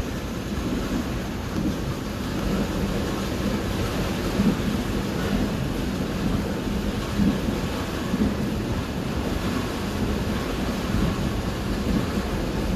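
Steady low rumble and rushing noise of a Mugunghwa-ho passenger train running at speed, heard from inside the carriage, swelling and easing irregularly.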